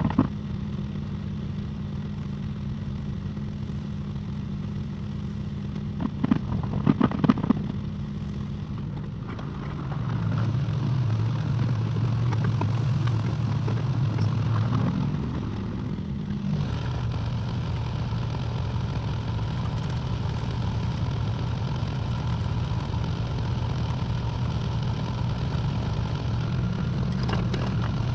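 Excavator engine running steadily, with a quick cluster of knocks about six to seven seconds in. About ten seconds in the engine note drops lower and gets louder for roughly six seconds, then settles back to a steady run.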